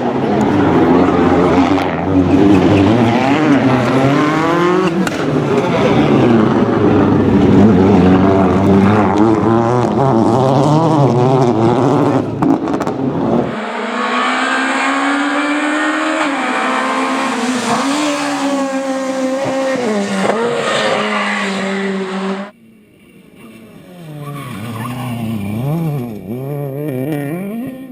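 Rally car engines at full throttle, the pitch rising and dropping with gear changes and lifts. The sound cuts abruptly to another car about halfway through and again near the end, where the engine is quieter.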